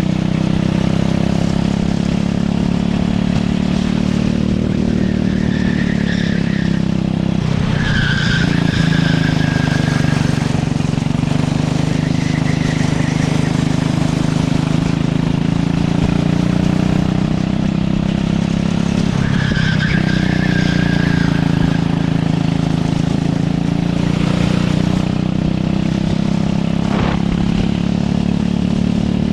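Go-kart engine running hard through a lap, its pitch dropping twice when it slows for corners and climbing again on the straights, with brief tyre squeals in those two bends.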